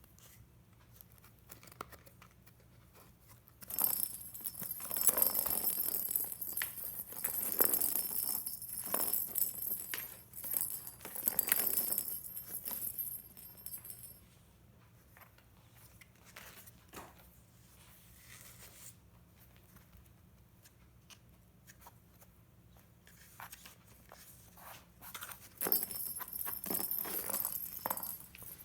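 A cat playing with a toy that jingles and rustles: a long spell of jangling, rustling and light knocks for about ten seconds, then quiet, then another spell near the end.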